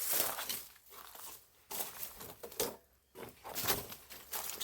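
Footsteps crunching and rustling over debris and brush, irregular and uneven.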